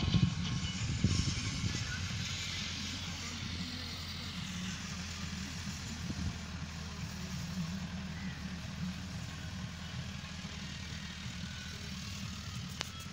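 Steady low rumble with a hiss above it, with a few thumps in the first two seconds.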